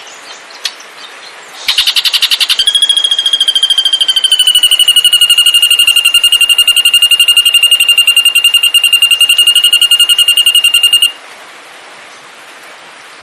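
A songbird's long, rapid trill: a short buzzy rattle, then one high pulsing trill held at a nearly steady pitch, dipping slightly, for about eight seconds before it cuts off abruptly.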